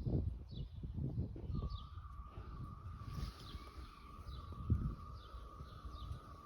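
Birds chirping with short, repeated falling calls over an uneven low rumble. About a second and a half in, a steady wavering high tone joins and holds.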